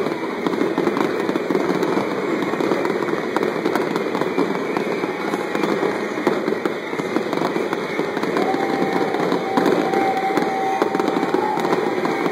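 Fireworks display going off in a dense, continuous stream of pops and crackles. A steady held tone sounds over it for about three seconds, starting about two-thirds of the way through.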